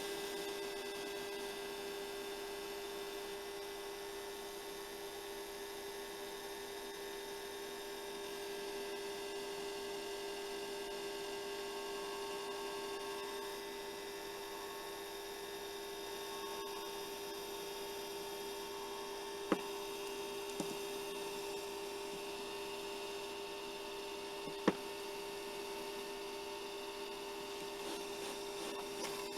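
Hair dryer running steadily, a constant electric hum with a light airy hiss; two short clicks past the middle.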